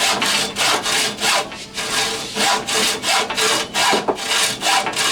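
Hand saw cutting through a rail for a 5-inch gauge ride-on railroad, in steady back-and-forth strokes about two to three a second.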